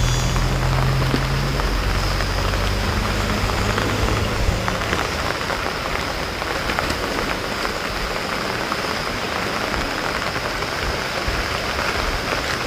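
Steady heavy rain falling, a dense even hiss of drops, with a low hum under it for the first few seconds.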